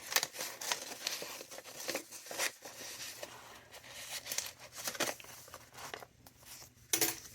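Paper rustling and crinkling as the thick pages and paper inserts of a handmade junk journal are handled and turned, in irregular short bursts.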